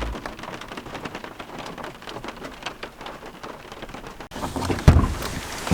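Heavy rain coming down, with many separate drops striking close by. About four seconds in, the sound changes abruptly and becomes fuller, with a couple of dull low thumps near the end.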